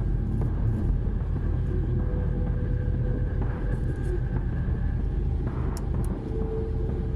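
Steady low rumble of a car driving on the road, with two short ticks about six seconds in.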